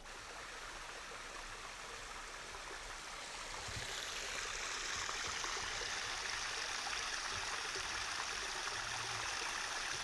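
Rainforest creek water running steadily, growing louder over the first few seconds and then holding even.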